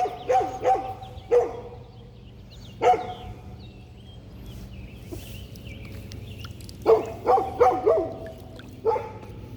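A dog barking in short yips, a few at a time: a quick cluster at the start, single barks at about 1.5 and 3 s, then a rapid run of five or so from about 7 to 8.5 s and one more just before the end.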